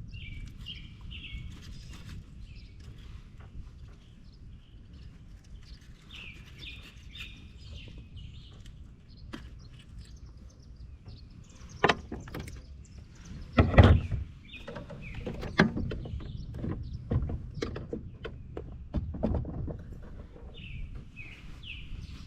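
A songbird chirping in short repeated phrases over a low outdoor rumble, with scattered knocks and bumps, the loudest about two-thirds of the way through.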